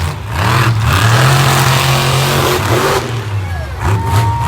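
Monster truck's supercharged V8 revving hard in repeated bursts, the pitch climbing and dropping, then easing off about three seconds in.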